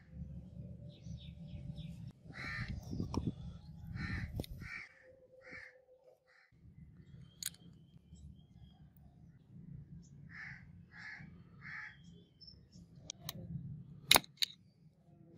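A bird calling in two runs of short calls, about two a second, the first a few seconds in and the second past the middle. A few sharp clicks from handling the metal gearbox parts, the loudest just before the end.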